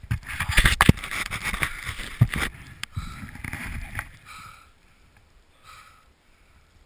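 Rough scraping and knocking as a snowboarder moves through deep powder snow, loudest for the first two or three seconds. It then quietens to soft puffs about every second and a half.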